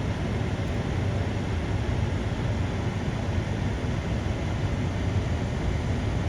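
Steady low rumble of a truck engine idling, heard from inside the cab.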